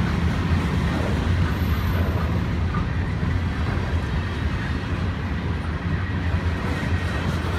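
Freight train of covered hopper cars rolling past close by: a steady low rumble of steel wheels on the rails.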